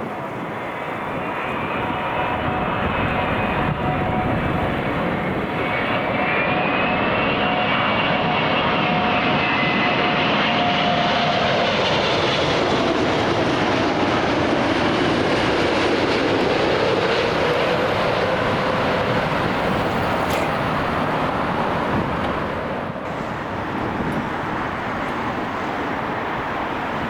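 Airliner jet engines passing: a steady whine with a rush of engine noise. It swells over the first dozen seconds, holds, and drops away about 22 seconds in.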